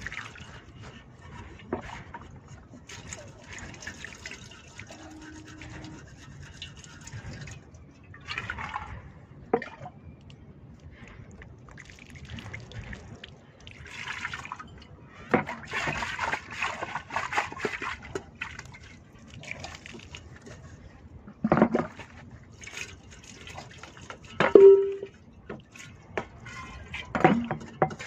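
Sooty metal cooking pots being scrubbed by hand and rinsed with water, scraping in uneven spells with water splashing. Near the end the pots knock together a few times, one knock ringing briefly.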